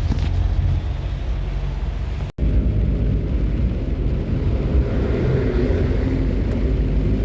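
A vehicle driving, with a steady low rumble of engine and road noise. The sound cuts out for an instant a little over two seconds in.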